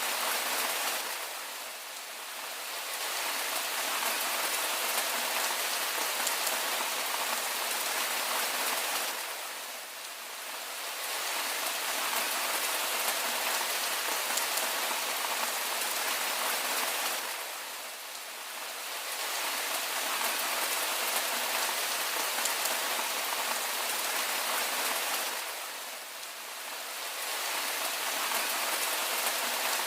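Steady rain falling on a surface: an even hiss of many drops, easing briefly in level about every eight seconds.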